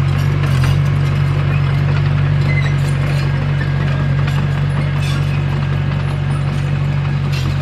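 Komatsu D21P bulldozer's diesel engine running steadily under load, with scattered clanks from its steel tracks.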